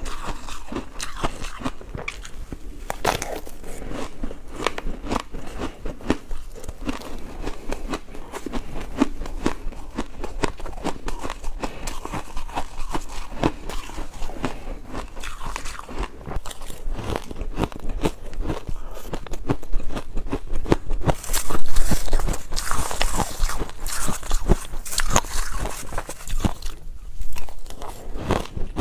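Ice being bitten and chewed close to the microphone: a continuous run of irregular crunches and cracks, louder and sharper for a stretch past the middle.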